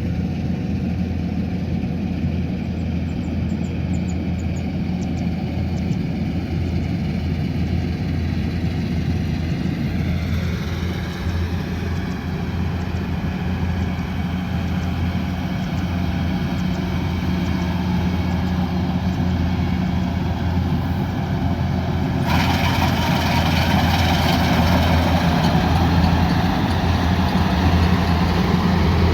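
Kubota combine harvester's diesel engine running steadily with a deep, even hum. About three-quarters of the way through, a louder, hissing whir comes in abruptly over the engine and carries on.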